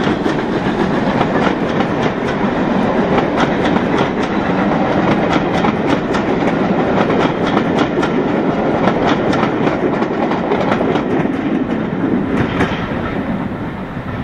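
Railway passenger coaches rolling past, their wheels clicking over the rail joints in a rapid, uneven clatter. The sound fades over the last couple of seconds as the train draws away.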